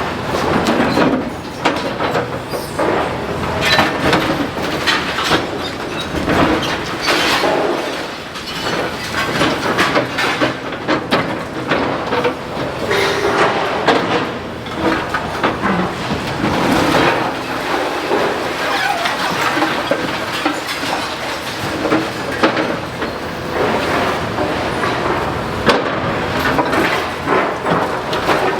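Excavator demolishing a building: a continuous clatter and crunch of breaking masonry and rubble, with many sharp knocks and metallic squeals and scraping.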